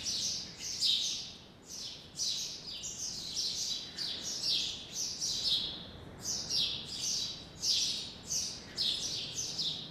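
Birds chirping busily: high, quick chirps that slide downward, overlapping one another without a break.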